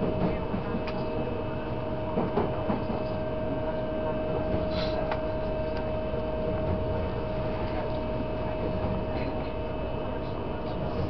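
Taiwan Railways EMU800 electric multiple unit train heard from inside a passenger car: a steady rumble with one constant high tone over it and a few light clicks and knocks.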